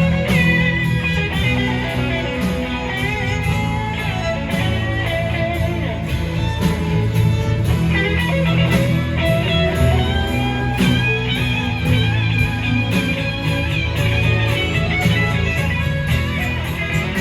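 Live rock band playing an instrumental break in a slow song: a lead electric guitar plays a bending melody over bass and a steady drum beat.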